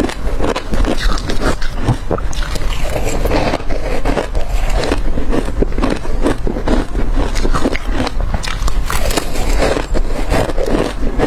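Crushed ice being bitten and crunched between the teeth: a dense, irregular run of loud crunches, one bite after another, with no pause.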